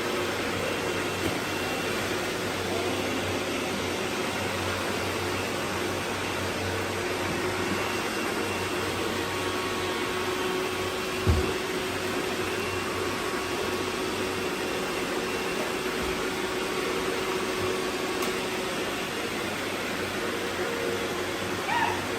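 Robot vacuum running: a steady whir with a faint hum, and one short thump about eleven seconds in.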